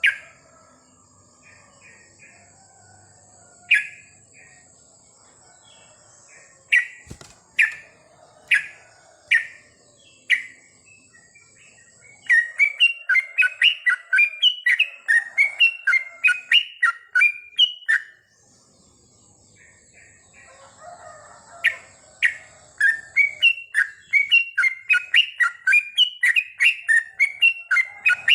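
Yellow-vented bulbul (trucukan) singing. Scattered single bubbly notes give way twice to fast chattering runs of many notes.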